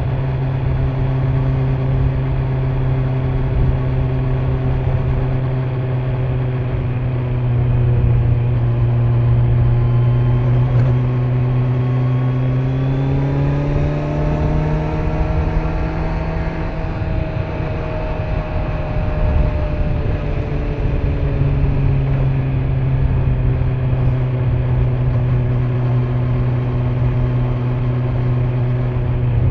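Kawasaki Z900's stock-exhaust inline-four engine running at steady revs under way, with wind and road noise. About halfway through the revs climb, then ease back down over several seconds.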